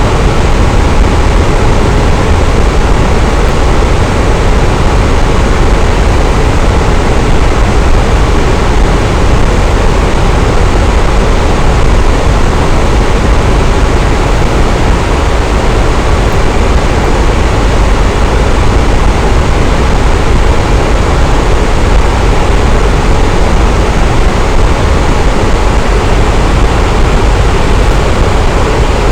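Electric fan running steadily: a constant, even whooshing hum of moving air, strongest in the low end, with no change.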